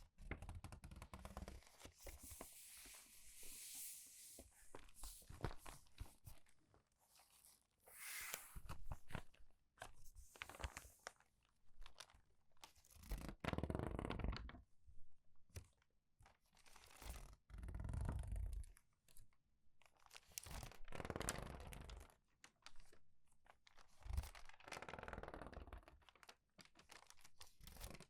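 Crumpled paper pages turned quickly and squeezed, crinkling and crunching in irregular bursts with short pauses between.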